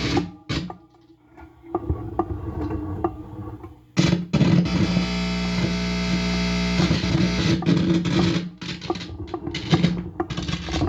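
Guitar amplifier putting out hum, buzz and crackle from a guitar cord whose free end is being touched by hand. The noise cuts in and out at first, holds as a steady buzzing hum from about four seconds in to about seven, then breaks into stuttering crackles. The owner takes it for a directed-energy attack.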